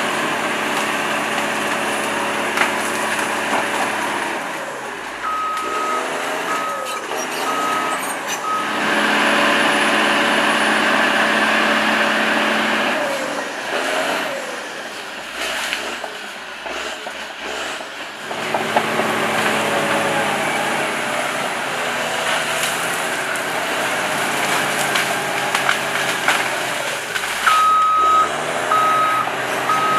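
Heavy machine's engine running, its pitch rising and falling as it works. A reversing alarm beeps in short, evenly spaced runs, about four beeps a few seconds in and again near the end.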